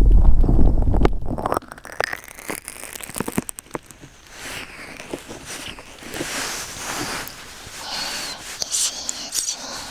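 Hands pressing on and covering the ears of a 3Dio binaural dummy-head microphone, heard as a loud, muffled low rumble. It stops after about a second and a half, giving way to soft, close rustling with scattered clicks and a faint breathy hiss.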